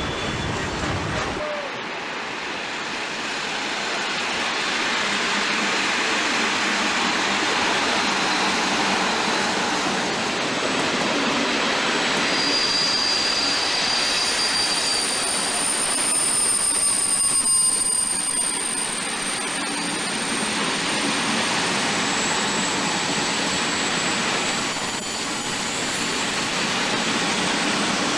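Freight train of piggyback semi-trailers on pocket wagons rolling steadily past, wheels running on the rails in a continuous rush, with thin high wheel squeals sounding on and off through the second half.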